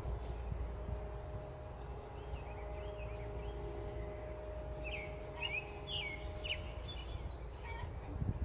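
Outdoor farm ambience: small birds chirping, with a run of quick chirps in the middle, over a low rumble and a faint steady hum.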